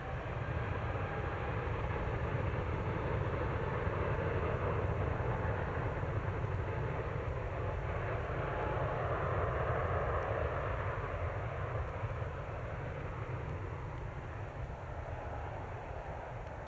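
Jet airliner engines at takeoff power as the aircraft passes on its departure run: a deep rumble that is loudest through the first two-thirds and then slowly fades.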